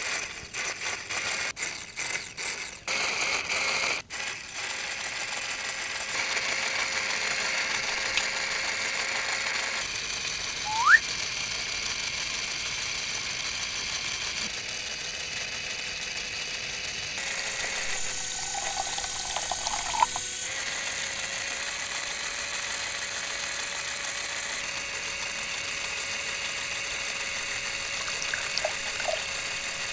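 Small electric motor of a miniature model machine running steadily, with irregular rattling and clicking in the first few seconds and a short rising squeak about eleven seconds in.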